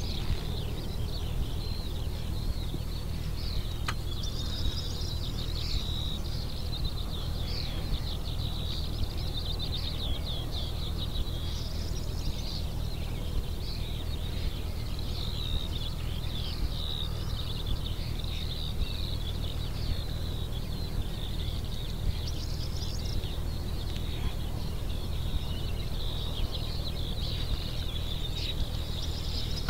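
Many small birds singing and chirping over open country, busy short calls throughout, with a steady low rumble underneath.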